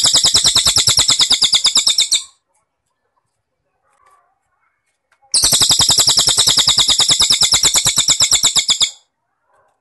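A rapid, evenly pulsed trill of about thirteen pulses a second, loud and high. It stops a couple of seconds in and starts again about five seconds in for another three and a half seconds, with faint small chirps in the gap between.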